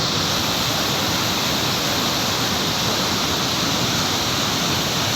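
Dhuandhar Falls on the Narmada River: a large waterfall crashing onto rocks, a loud, steady rush of water.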